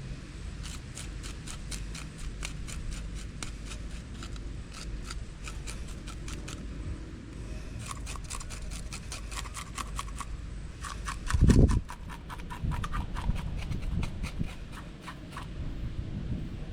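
Quick, evenly repeated strokes of a blade on a small fish being cleaned, about four or five sharp ticks a second, in three runs with short pauses between. A single loud low thump comes about eleven and a half seconds in.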